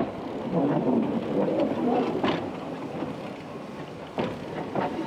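A small Andrew Barclay industrial steam locomotive running past on the line. A steady rumble fills the first half, with wheel clicks over the rail joints about two seconds in and again near the end.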